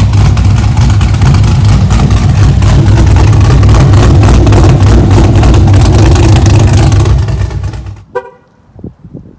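Chevrolet Camaro SS's 6.2-litre V8 with a Stage IV camshaft, headers and a catless straight-piped exhaust, running very loud. The sound dies away about seven to eight seconds in.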